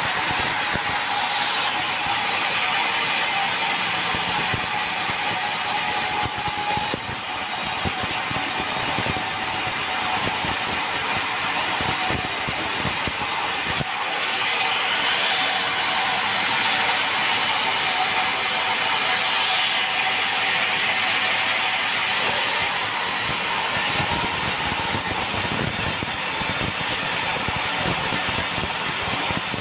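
Sawmill band saw and its machinery running, a steady loud mechanical noise with a strong hiss, briefly breaking off near the middle.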